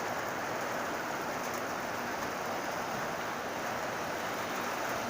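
Steady rain falling, an even hiss that holds constant with no distinct drops or other events.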